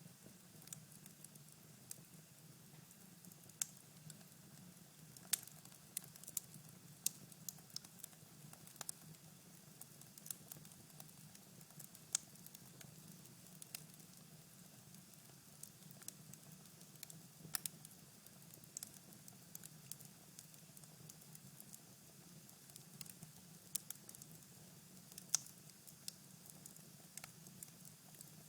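Cherry-wood fire burning in a fireplace, giving off faint, irregular crackles and small sharp pops.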